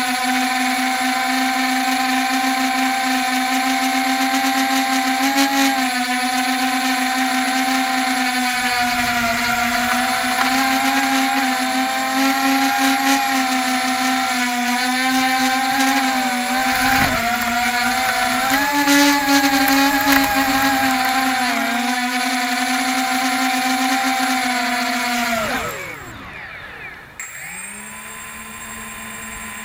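Small quadcopter's electric motors and propellers whining steadily in flight, the pitch wavering up and down; the drone has a bad motor and a loose arm. About 25 seconds in the whine falls away in pitch as the motors spool down, then a quieter whine rises again near the end.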